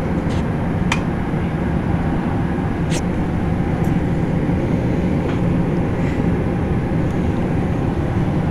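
Carrier Infinity GreenSpeed 25VNA inverter heat pump's outdoor unit starting up in cool mode, running with a steady low drone, with two faint ticks about one and three seconds in. Its start-up sounds as if something is wrong, which is how this unit is supposed to sound.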